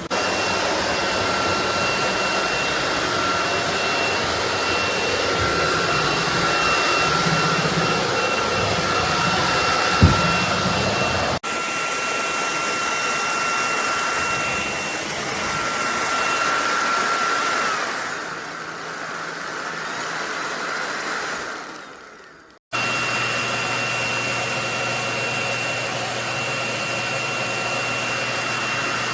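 SunSare X11 cordless stick vacuum running, a steady high whine over a rush of air. About 18 seconds in the whine glides down and the sound fades out as the motor winds down, then it is running again at full speed from about 23 seconds in. There is a sharp click about 10 seconds in.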